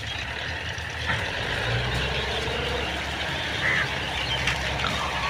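An engine running steadily, louder from about a second in, with a few short high calls over it.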